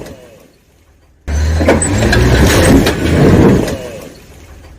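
A vehicle running, with a strong low rumble. It cuts in suddenly about a second in and fades out over the last second or so.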